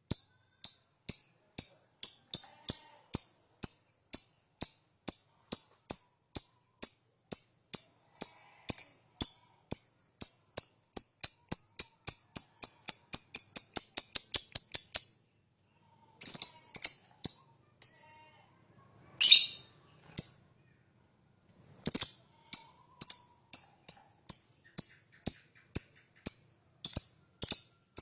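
Lovebird giving the long chattering "ngekek" song: sharp high notes in a steady run of about two a second that speeds up, then breaks off about halfway. A few scattered calls and one harsher call follow, and after a pause the run starts again near the end.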